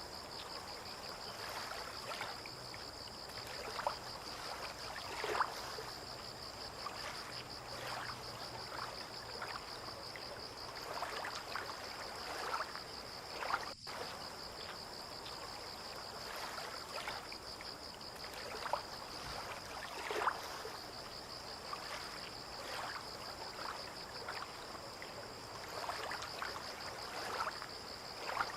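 Water lapping and splashing gently in small irregular slaps, with a steady high insect trill over it.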